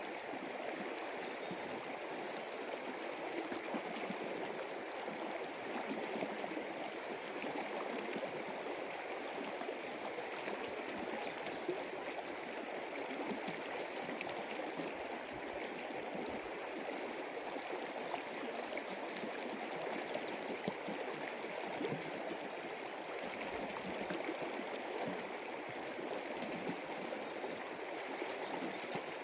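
Forest stream flowing and gurgling, a steady, unbroken rush of water.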